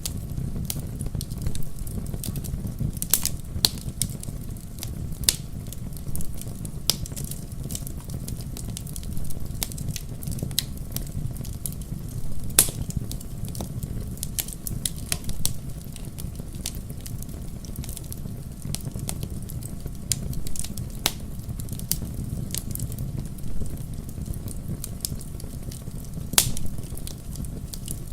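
Wood fire in a fireplace crackling, with sharp pops at irregular intervals over a low, steady rumble; two pops, about halfway through and near the end, stand out as the loudest.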